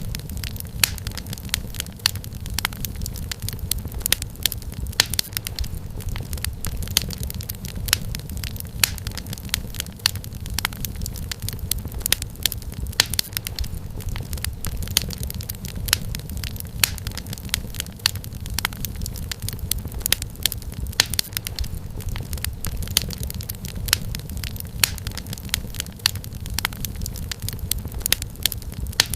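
Wood fire crackling: frequent sharp irregular pops and snaps of burning firewood over a steady low rumble of the flames.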